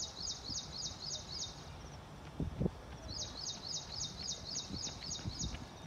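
A bird calling a fast series of short, high repeated notes, about five a second, in two runs with a pause of a second or so between them, over quiet outdoor ambience. A few soft thumps come near the middle.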